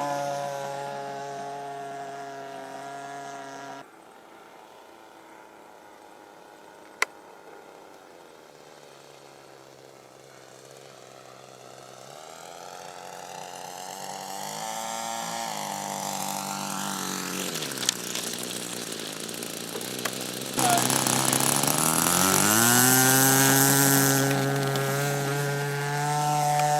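A UAV drone's propellers and electric motors in flight, a whine with several pitched lines that glide up and down as the throttle and distance change. It turns much fainter about four seconds in, grows louder again from about twelve seconds, and jumps loud about twenty-one seconds in.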